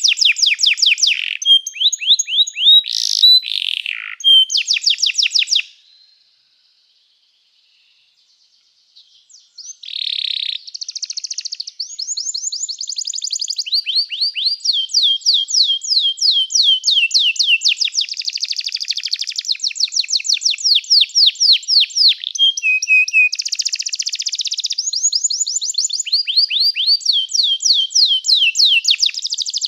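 Domestic canary singing in rapid trills, each a quick run of repeated high notes, one run after another. The song breaks off for about three seconds, then resumes and goes on without a stop.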